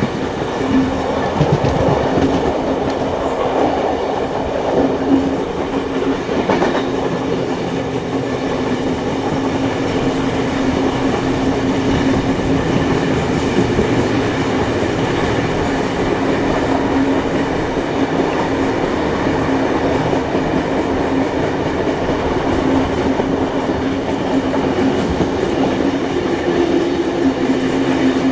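Passenger train hauled by steam locomotives 3526 and 3265 running along the line, heard from a carriage behind them: a steady rumble of wheels on rail with a constant hum.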